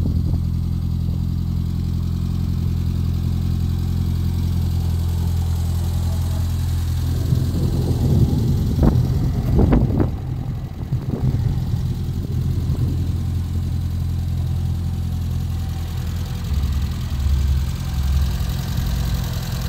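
Renault 5 GT Turbo's 1.4-litre turbocharged four-cylinder engine idling steadily, with a few knocks and clatter about eight to eleven seconds in.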